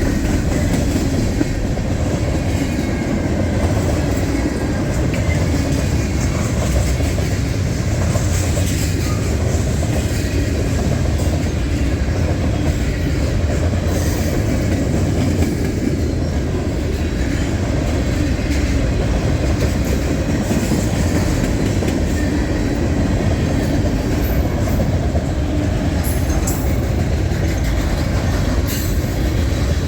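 Freight train cars rolling steadily past on steel wheels and rails.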